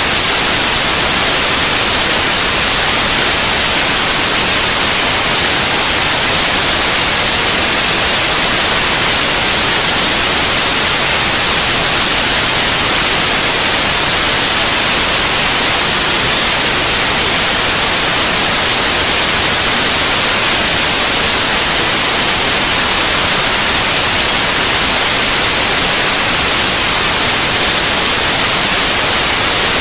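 Steady, loud white noise: an unchanging hiss, brightest in the high frequencies, played as a sleep aid for babies.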